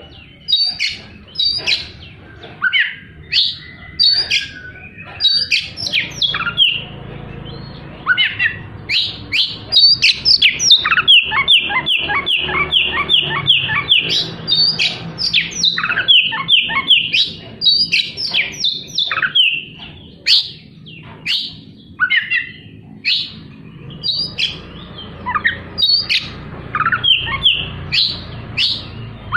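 Oriental magpie-robin (kacer) singing loudly: a varied, continuous string of sharp whistled notes, many falling in pitch, with a fast run of rapidly repeated notes in the middle.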